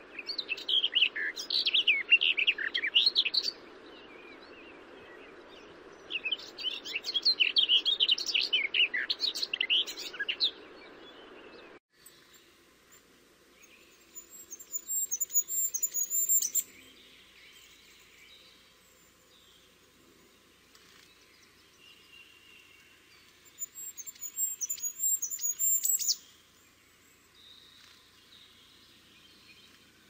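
Birds singing in repeated bursts of rapid chirping over a steady background hiss. About twelve seconds in, the audio cuts to quieter ambience, with two short phrases of high, thin song.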